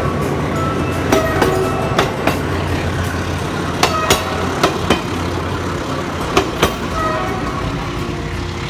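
Philippine National Railways train rolling past, its wheels clacking over rail joints, often in quick pairs, over a steady low drone.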